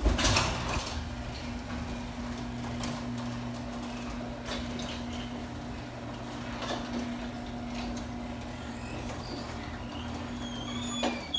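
LiftMaster 8355 belt-drive garage door opener running the door up. A loud start, then a steady motor hum with scattered clicks that stops with a click near the end, running smoothly.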